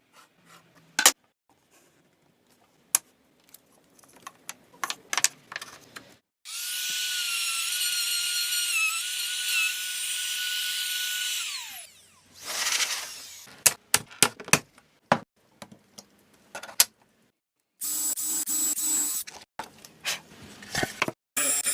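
Small electric power tool, drill-like, running with a steady high whine for about five seconds and then winding down. Two shorter runs come near the end. Scattered knocks and taps of tools and wood come between the runs.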